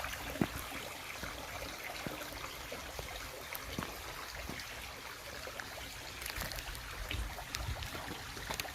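Stream water trickling in a steady flow.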